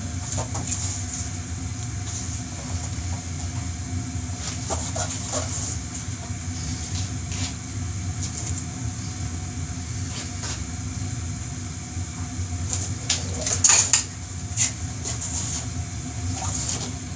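A lubricated rubber motorcycle tire being pushed by hand over the rim of an alloy wheel: scattered rubbing, squeaks and knocks, with a louder cluster about three-quarters of the way through, over a steady low hum.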